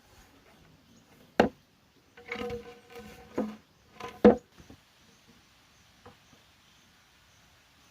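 Sharp knocks on bamboo, three main strikes with a ringing stretch between the first two, the loudest strike about four seconds in. A couple of fainter knocks follow before it settles to a faint steady background.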